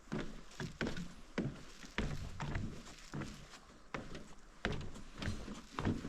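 Footsteps of a person walking along a forest walkway, a sharp step about every half second to a second.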